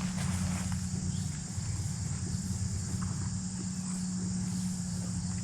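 Crickets trilling steadily at a high pitch over a steady low hum, with a few faint clicks.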